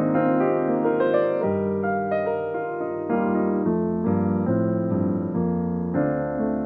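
Solo piano playing a slow song, chords and melody notes struck in turn, each ringing on.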